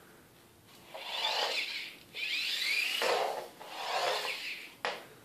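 Parrot Jumping Sumo's small electric drive motors running in three short spurts, the whine rising and falling in pitch, with a sharp click near the end.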